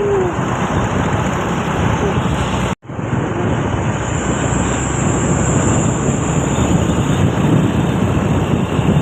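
Road traffic with heavy vehicles passing: engine rumble and tyre noise, with wind buffeting the microphone. The sound cuts out completely for a moment just under three seconds in.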